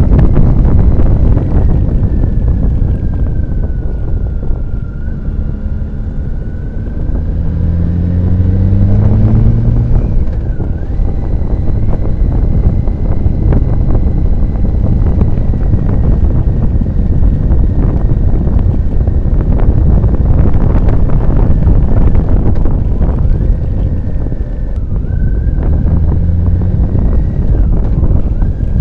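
Motorcycle riding at speed: wind buffeting the microphone over the engine. The engine's pitch rises as it accelerates about eight seconds in, and briefly again near the end.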